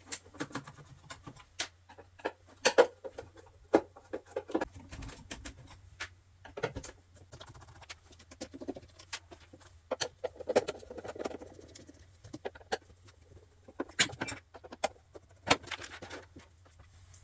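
Screws being taken out of the back cover of a home theatre unit with a screwdriver: irregular clicks, taps and short scrapes of the tool and screws against the casing.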